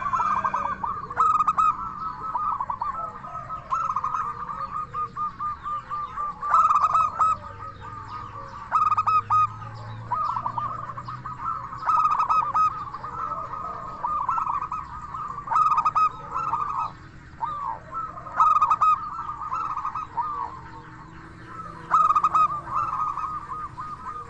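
Zebra dove (perkutut) cooing: phrase after phrase of rapid, rippling notes with short pauses between them.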